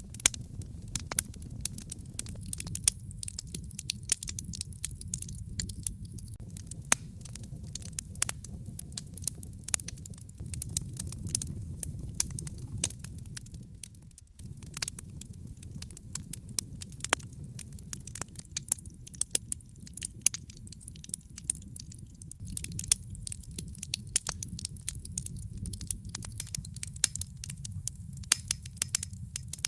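Wood fire in a fireplace crackling, with frequent sharp snaps and pops of varying strength over a steady low rumble. The rumble drops out for a moment about halfway through.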